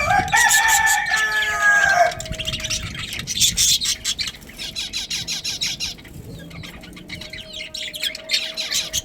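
A rooster crows once, a loud call lasting about two seconds that drops in pitch as it ends. Budgies keep up a busy, high-pitched chirping chatter around it and after it.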